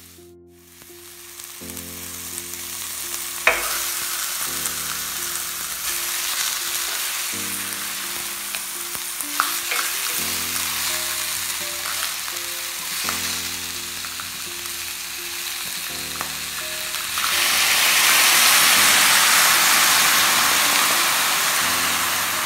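Onions and pork pata sizzling in a hot stainless steel pan while being stirred with a spatula, which clicks against the pan now and then. The sizzle grows louder for the last few seconds.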